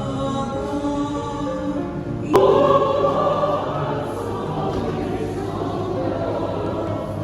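A choir singing a slow devotional hymn, held notes moving between chords. About two and a half seconds in there is one sharp click, and the singing is louder after it.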